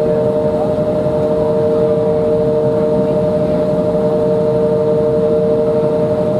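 Steady cabin noise of an Embraer 175 climbing toward cruise: an even rush of air with the hum of its CF34 turbofan engines, which carries two strong steady tones.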